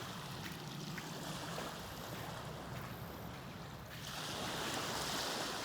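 Small lake waves washing onto the beach, with a louder wash about four seconds in.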